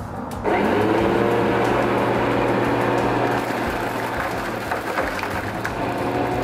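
Lawnmower starting abruptly about half a second in, its pitch rising briefly as it comes up to speed, then running steadily.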